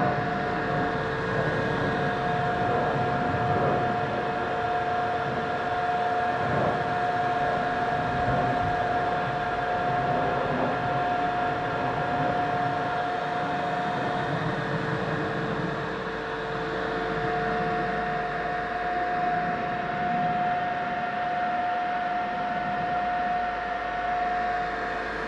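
Okamoto machine tool running under power: a steady motor sound with two held tones over a constant mechanical noise.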